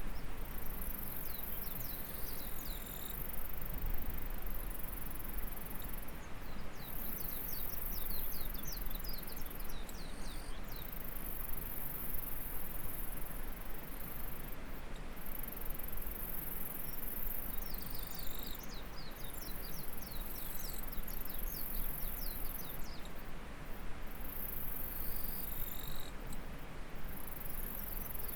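Rice-paddy ambience: flowing stream water making a steady rush, under a very high, shrill insect drone that stops and starts every few seconds. Runs of quick high chirps come and go four times.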